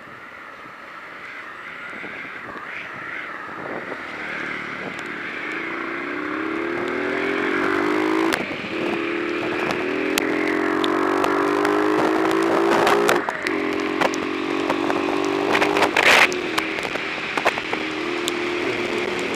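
Vehicle engine accelerating up through the gears: its pitch climbs, drops back at each gear change and climbs again, growing louder, over wind noise on the unprotected microphone. Sharp clicks and crackles come through throughout, the loudest a clatter about sixteen seconds in.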